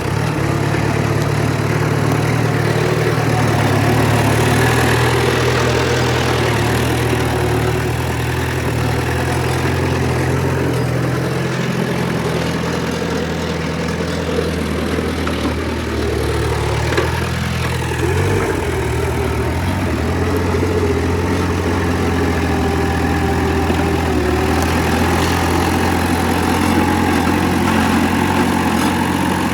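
Heavy diesel engine of earthmoving machinery running steadily, with a brief rise and fall in engine speed about seventeen seconds in.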